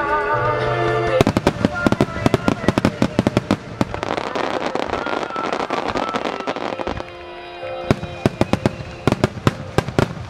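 Starmine fireworks: music plays alone for about a second, then rapid volleys of shell bursts begin, thickening into dense crackling in the middle, with more sharp bangs near the end. The show's accompanying music carries on faintly underneath.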